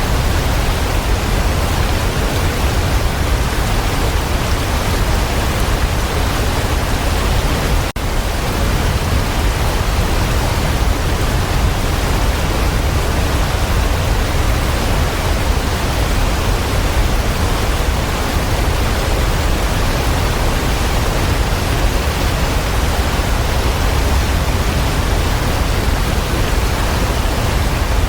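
Waterfall: a steady, full rush of falling water with a deep rumble underneath, broken only by a split-second dip about eight seconds in.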